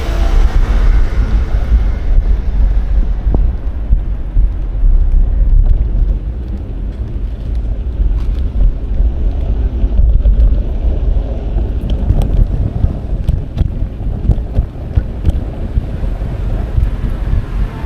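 Wind buffeting an action camera's microphone while cycling, a loud low rumble, with a few light clicks or rattles in the second half.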